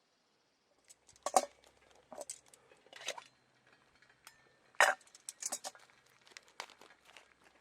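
Camp cookware and utensils clinking and knocking together: a string of sharp, separate clinks, the loudest about a second in and again near the middle.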